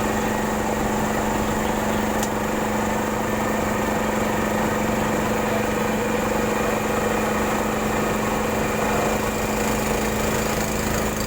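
Motorboat engine running steadily, an even hum that holds the same pitch throughout.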